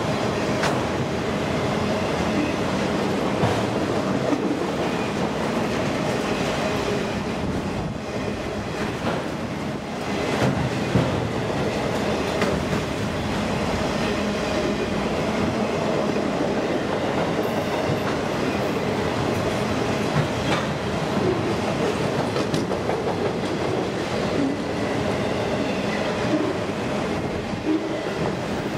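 Autorack freight cars of a CSX train rolling past close by: a steady rumble of steel wheels on the rails, with a clickety-clack and a few sharp clicks as the wheels cross rail joints.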